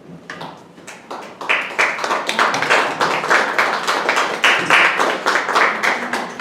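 Audience applauding, a few scattered claps that swell into full applause after about a second and a half.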